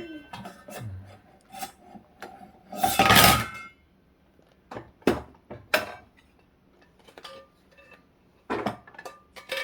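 Toy kitchen play: scattered knocks and clicks of toy pots, utensils and play-kitchen parts being handled, with a louder clatter about three seconds in.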